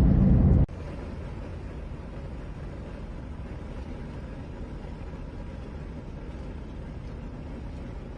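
A louder sound cuts off abruptly under a second in, leaving a steady low rumble of vehicle noise.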